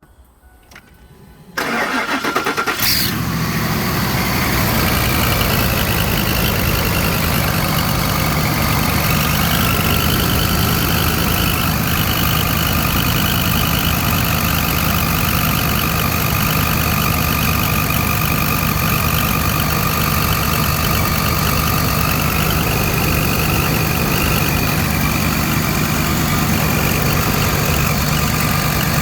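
2004 Ford Explorer's 4.6 V8 starting about a second and a half in and settling to a steady idle, with a steady whistling shriek over the engine. The shriek is exhaust blowing past the manifold gasket where a manifold stud is broken, driven by high back pressure from a clogged catalytic converter.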